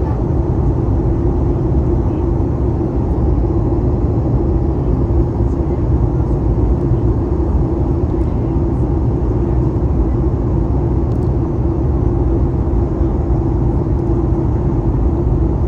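Steady cabin noise inside a Boeing 737 MAX 8 airliner: a low, even rumble of engines and airflow with a constant hum, unchanging throughout.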